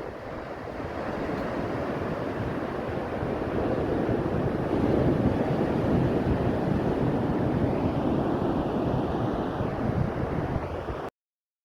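Ocean surf washing in on a sandy beach, a steady rush that swells slowly, with wind buffeting the microphone. The sound drops out completely for a moment near the end.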